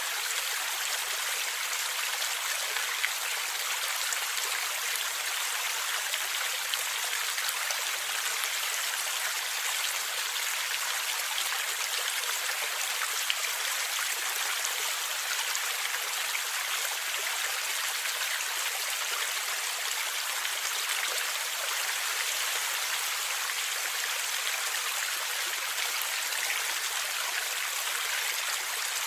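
Water in a stream flowing and gurgling steadily, an even bright rushing hiss with no let-up.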